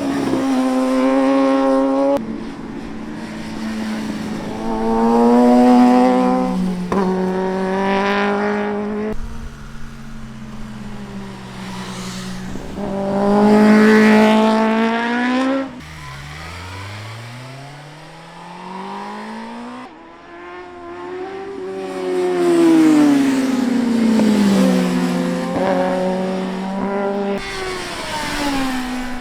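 Superbike engine being ridden hard: it repeatedly revs up to loud, high-pitched pulls and then falls away as the throttle closes. The pitch climbs and drops over and over through the corners, with a sharp cut in loudness just before the middle.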